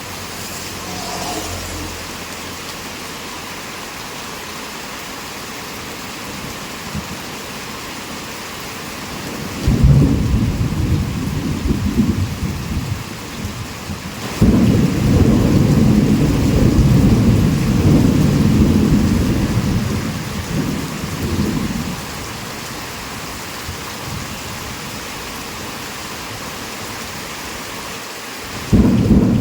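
Heavy rain falling steadily, with thunder rumbling low about ten seconds in, a longer, louder roll of thunder from about fourteen to twenty-two seconds, and another rumble starting near the end.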